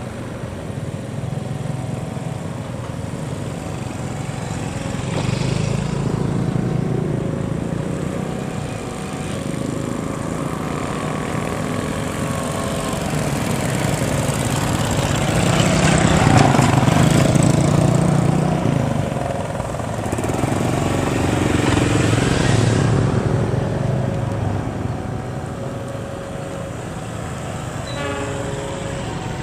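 Diesel-electric locomotives of a double-headed passenger train rumbling as the train approaches slowly, mixed with the idling engines of motorcycles waiting at the crossing. The sound swells several times and is loudest about halfway through. Over it a level-crossing warning bell repeats a steady two-note tone.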